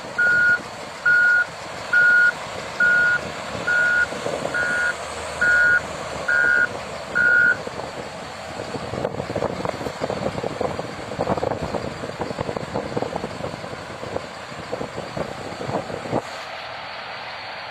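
Reversing alarm of a heavy construction vehicle beeping nine times, a little faster than once a second, then stopping. A rough, crackling clatter follows for about eight seconds, then a steady hiss.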